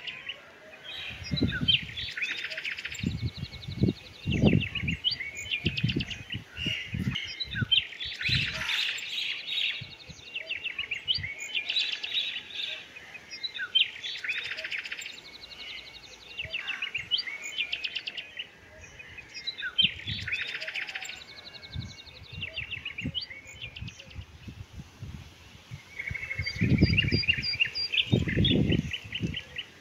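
Small birds chirping and chattering in quick, trilling bursts that keep recurring, with a few low thumps, the heaviest near the end.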